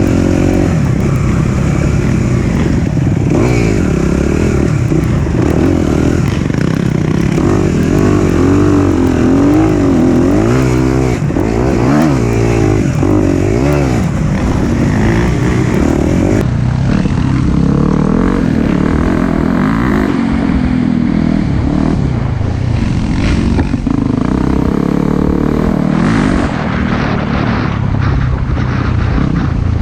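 Four-stroke dirt bike engine running under way on a trail, its pitch rising and falling again and again as the throttle is worked.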